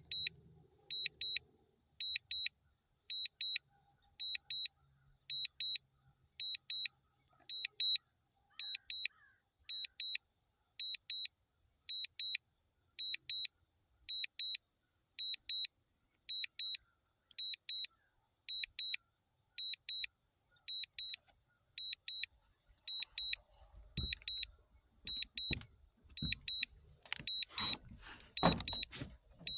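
DJI drone remote controller sounding its critical low-battery warning: short high double beeps repeating about twice a second without a break, the drone's battery at or near empty. Knocks and rustling join in near the end.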